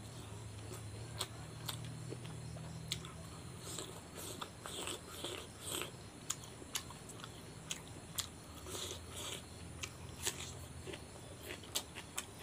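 Close-up chewing of a mouthful of rice and chicken curry eaten by hand: irregular wet smacks and clicks, several a second, over a low steady hum.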